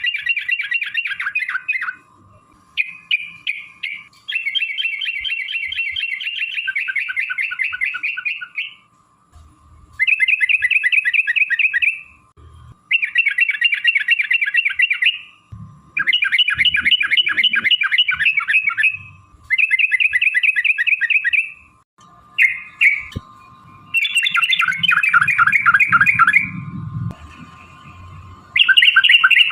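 Yellow-vented bulbul (trucukan) singing long, fast rattling trill phrases in the 'ropel' style. Each burst lasts a couple of seconds, and they repeat with short pauses.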